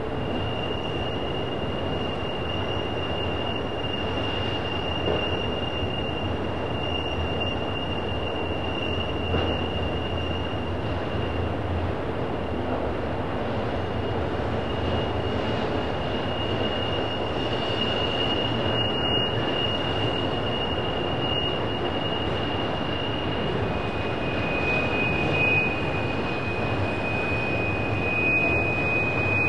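A train rolling past, its wheels giving a steady high-pitched squeal over the rumble of the cars, the squeal's pitch stepping down slightly about two-thirds of the way through. The squeal is typical of wheel flanges grinding against the rail on a curve.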